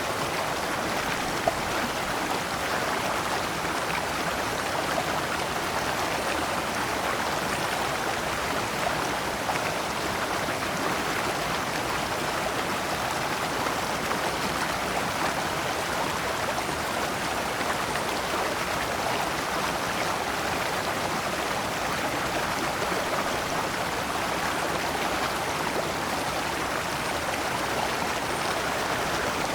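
Shallow rocky stream flowing over stones in small cascades: a steady, even rushing and splashing of water. A single brief click sounds about one and a half seconds in.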